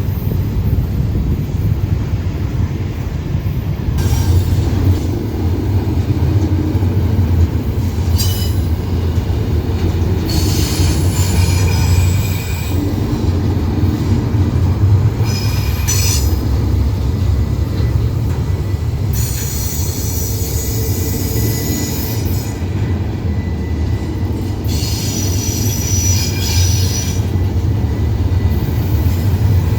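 Railroad cars rolling past with a steady heavy low rumble, their steel wheels squealing in repeated high-pitched bursts every few seconds.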